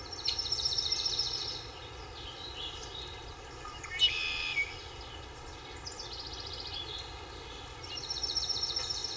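Small birds chirping in fast, evenly pulsed high trills over a steady background hiss: one trill at the start, another about six seconds in and a third near the end, with a sharper chirp about four seconds in.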